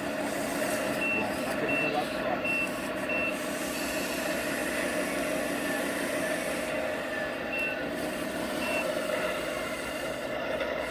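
1/14-scale RC truck's sound module playing a reversing beeper over a steady engine drone. Four short high beeps come about 0.7 s apart in the first few seconds, then two more about three quarters of the way through.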